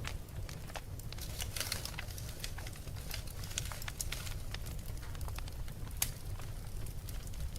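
Fire crackling: irregular sharp pops and snaps over a steady low rumble, with a louder snap about six seconds in.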